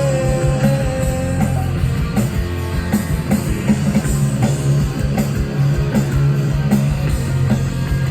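Live rock band playing loudly, as heard from the crowd: electric guitars and drum kit with a steady beat and no singing.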